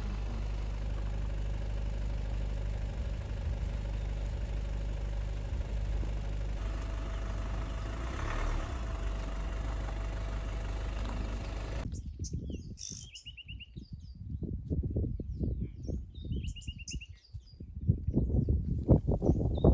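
A vehicle engine idles steadily. About twelve seconds in, the sound cuts to a bird calling a short rapid trill three times over irregular low rustling and knocking.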